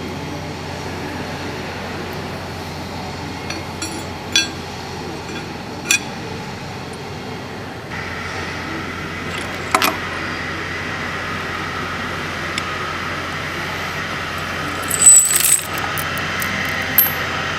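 Sharp metallic clinks of small metal valve parts and tools being handled during a pump valve assembly replacement: a few single clinks spaced seconds apart, then a louder cluster near the end, over a steady background hum.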